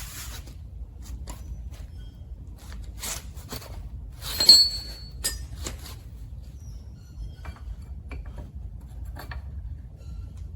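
Metal parts of a trike's rear axle clinking and scraping as the axle is slid through its bracket and bearing, with one loud metallic clink about four and a half seconds in that rings briefly.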